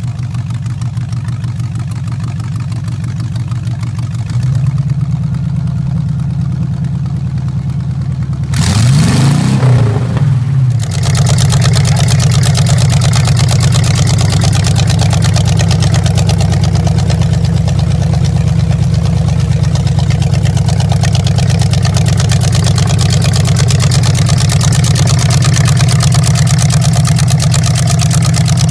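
Chevrolet V8 running through open individual-pipe headers. It idles, gets louder about four seconds in, is revved in a few quick blips with the pitch sweeping up and down around the ten-second mark, then runs steadily again.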